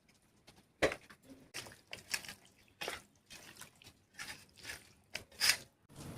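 Water splashing and dripping in short, irregular bursts, as in a kitchen sink. The loudest burst comes near the end.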